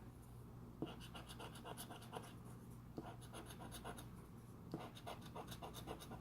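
A scratch-off lottery ticket being scratched, its coating scraped off in three runs of quick short strokes with brief pauses between.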